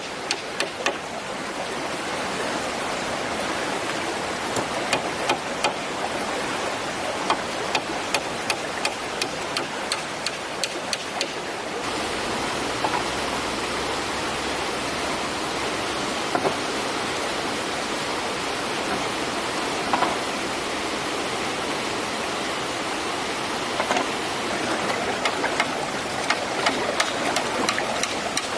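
A small river flowing steadily, with many sharp clicks and taps over it, thickest in the first half.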